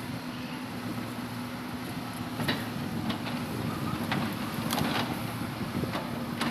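Hitachi Zaxis 200-5G excavator's diesel engine running steadily, with several sharp knocks scattered through it.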